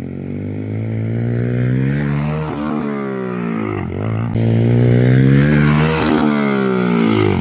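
Mini bike's small engine revving, its pitch rising and falling in several sweeps as the throttle is opened and closed.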